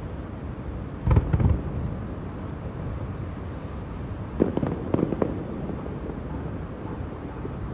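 Aerial fireworks bursting in a display: a quick cluster of bangs about a second in and a second cluster of several sharp cracks around four and a half seconds in, over a steady low rumble.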